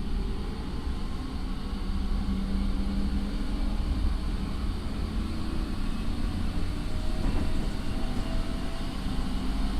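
JR 209 series electric train running, heard from inside a motor car fitted with a Mitsubishi IGBT inverter and MT68 traction motors: a low rumble with steady motor and inverter tones, some of them rising slowly in pitch as the train gathers speed.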